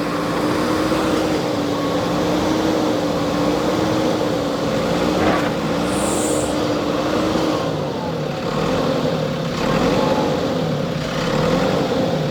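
Backhoe loader's diesel engine running steadily, its pitch wavering slowly and changing about halfway through as the engine speed shifts.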